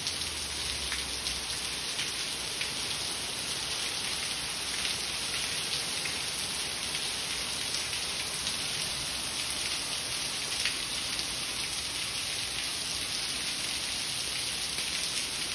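Heavy rain falling steadily onto brick paving and a driveway: a dense, even hiss with a fine patter of individual drops.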